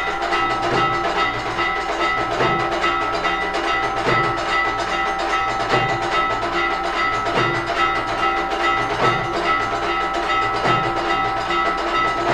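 Aarti temple bells ringing continuously, with a steady drum beat under them.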